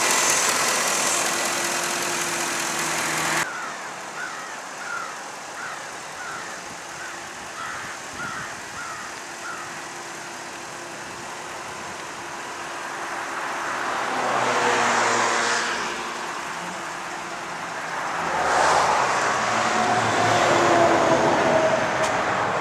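A 2003 Ford F-150 pickup's engine running, with a sudden drop in sound a few seconds in. A run of short high chirps comes about twice a second, then the engine sound swells up twice in the second half.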